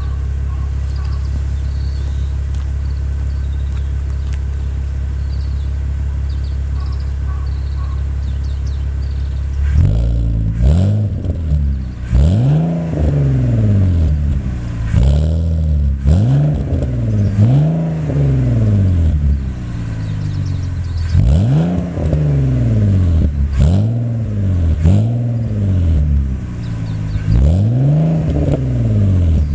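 BMW Z4 E85 straight-six breathing through a MARVIN stainless-steel aftermarket muffler, idling steadily, then free-revved in a string of short throttle blips from about ten seconds in, the exhaust note rising and falling with each one.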